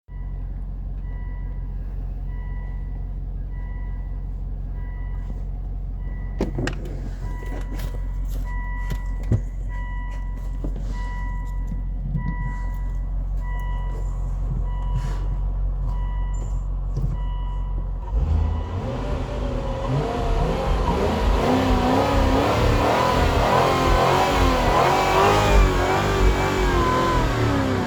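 A car's V8 engine idling steadily while a warning chime beeps about once a second, then from about two-thirds of the way in it is revved hard again and again with the gas pedal pumped, the pitch rising and falling in quick surges.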